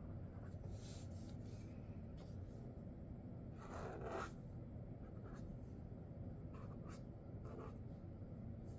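Sharpie Creative Marker tips stroking across paper in short scattered strokes, with one longer, louder stroke about four seconds in, over a faint low hum.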